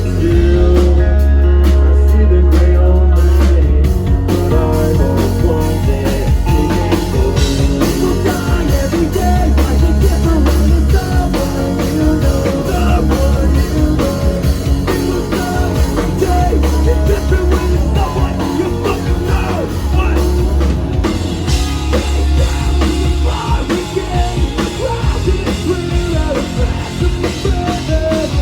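Live rock band playing loud: drum kit, heavy bass, electric guitars and some singing.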